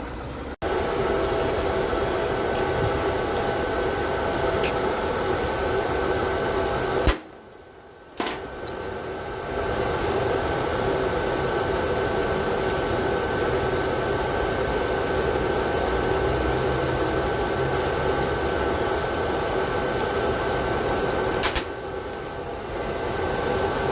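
VEVOR MIG-130 welding machine switched on, its motor giving off a steady whirring hum with a few fixed tones. The hum cuts off abruptly for about a second some seven seconds in, then comes back, and it dips again near the end.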